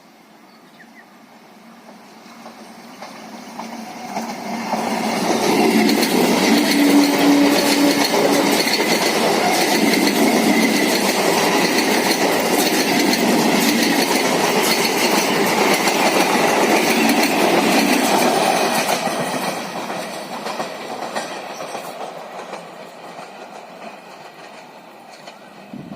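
A local passenger train passing by, with wheels clattering over the rail joints. It builds up over the first few seconds, runs loud through the middle, and fades as it goes away.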